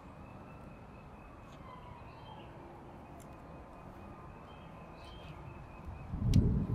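Faint bird chirps and small clicks over a quiet outdoor background, with a brief low rumble near the end.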